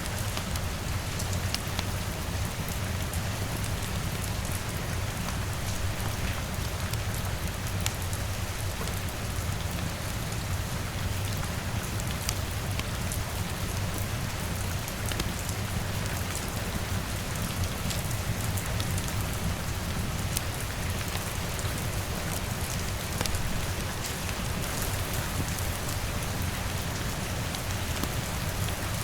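Steady rain, with scattered sharp drop-like ticks over an even hiss and a low steady rumble underneath.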